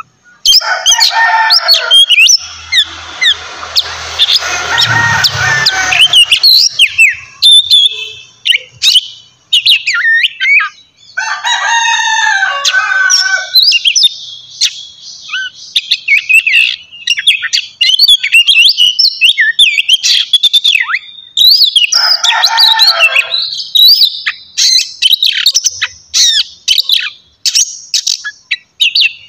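Oriental magpie-robin singing loudly and continuously: a fast run of varied high whistled notes, broken three times by harsher, rasping chattering phrases.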